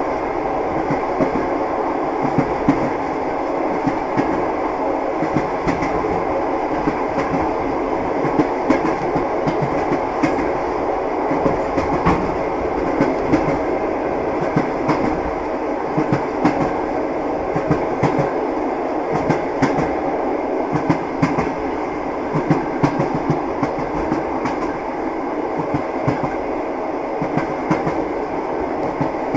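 Train running steadily, its wheels knocking over the rail joints above a constant rumble.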